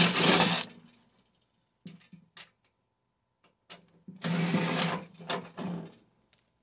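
A cordless drill-driver runs in short bursts, backing out the screws that hold a microwave oven's transformer, with a few small metal clicks between the bursts.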